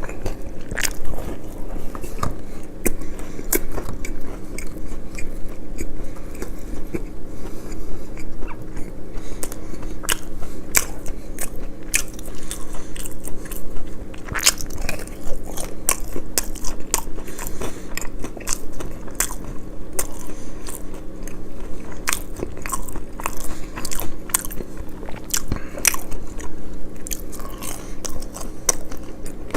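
Close-miked eating: a steady stream of crisp crunching bites and chewing clicks, over a faint steady hum.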